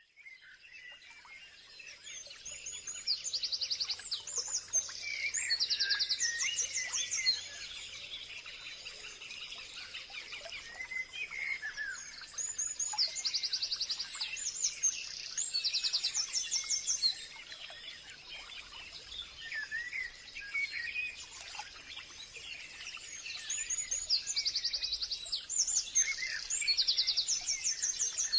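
Several birds singing and chirping in a forest, with bursts of rapid high trills coming back about every ten seconds, over a faint steady high-pitched tone.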